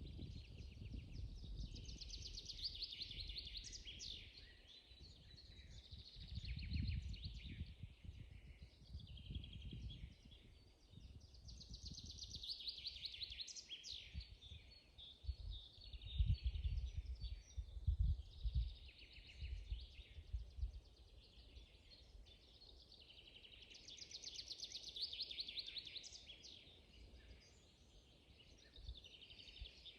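Songbirds singing in a spring forest, one bird repeating a rapid trilled phrase about every ten seconds, with other chirps between. Irregular low rumbling gusts sit underneath.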